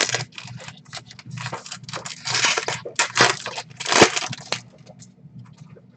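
Foil baseball card pack wrapper being torn open and crumpled, a dense crinkling crackle with a sharp loud crackle about four seconds in, fading to faint handling clicks near the end.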